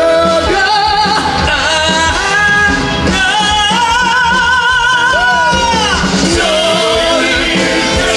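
Men singing a slow, sustained song line over instrumental accompaniment. A long note with vibrato is held from about three seconds in, then falls away near six seconds.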